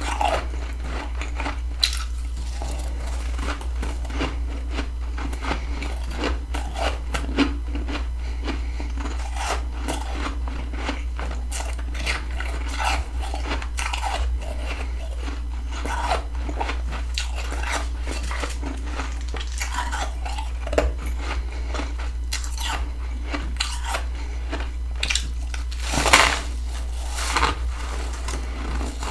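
Close-up chewing and crunching of freezer frost grown with a humidifier: a continuous run of crisp crunches and small crackles, with a louder cluster of crunches near the end, over a steady low hum.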